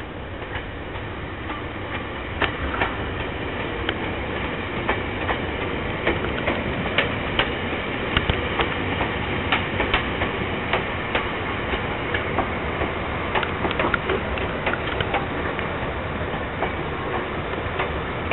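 Yellow Seibu 101-series electric train passing close by, its wheels clattering over the rail joints in many irregular sharp clicks over a steady running noise. It grows louder about two seconds in.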